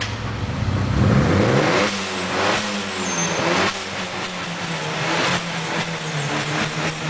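Turbocharged Mitsubishi Eclipse engine revving: the revs rise about a second in and drop back near two seconds, with a few shorter blips before it settles to a steadier idle. A repeated high chirping runs over the engine in the second half.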